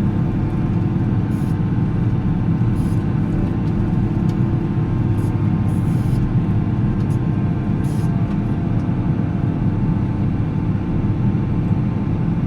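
Volvo L70C wheel loader's diesel engine running steadily while plowing snow: a deep, even rumble that holds constant throughout.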